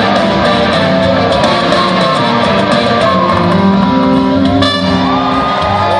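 Live rock band jamming, electric guitars to the fore, with a long high guitar note held and bent near the end.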